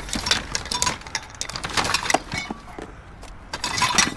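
Pieces of scrap metal clinking and clanking as they are handled and loaded: several clusters of sharp knocks, some with a brief metallic ring.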